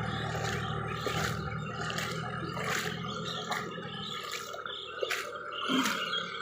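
Sonalika tractor's engine running, fading away about four seconds in, with repeated splashing and sloshing of water.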